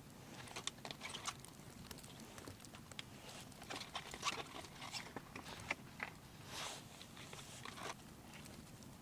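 Faint, irregular crunching and clicking, several small sharp ticks a second, with a soft swishing patch near the middle.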